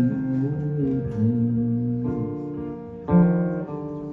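Acoustic guitar playing song accompaniment, the chords ringing on, with a new chord strummed about three seconds in.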